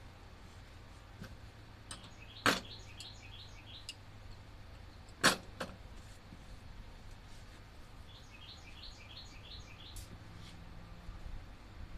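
A bird calling twice in quick runs of short, high chirps. Two sharp knocks about three seconds apart are louder than the birdsong, over a faint steady low hum.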